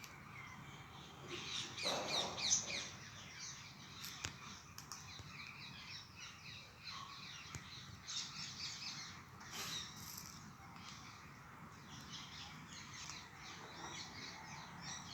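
Small birds chirping and twittering in quick, high-pitched runs of short calls, busiest about two seconds in and again around eight to ten seconds in, over faint outdoor background noise.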